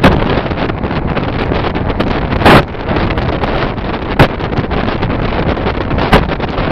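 Passenger train running, with steady rolling noise and wind buffeting the microphone; the wheels bang loudly over gaps in the track four times at uneven intervals, as over rail joints and points on the station approach.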